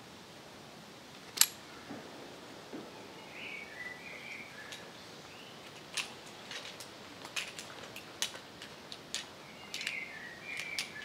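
A small bird chirping in short warbled phrases, twice, with a scatter of sharp clicks; the loudest click comes about a second and a half in.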